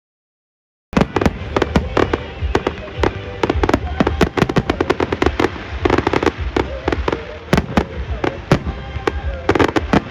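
Fireworks going off in a dense crackling volley: many sharp pops and bangs in quick succession over a low rumble, starting abruptly about a second in.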